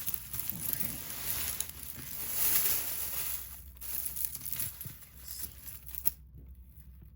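Packaging crinkling and rustling as it is handled while jewelry is picked out of a box. It is loudest a couple of seconds in and stops about six seconds in.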